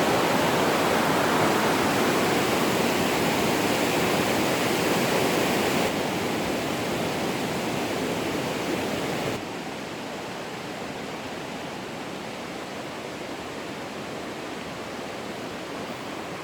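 Steady rush of water from a creek's falls, a constant hiss without any rhythm. It gets a little quieter about six seconds in, then drops abruptly about nine seconds in to a softer, duller rush.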